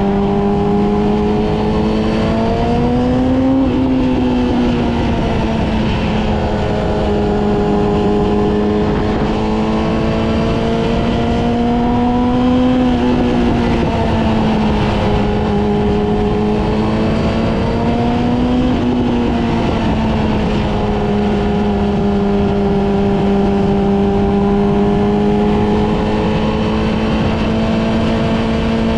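Yamaha R6 inline-four engine running at steady cruising revs under way, its pitch rising briefly and settling back three times with small throttle changes, over rushing wind and road noise.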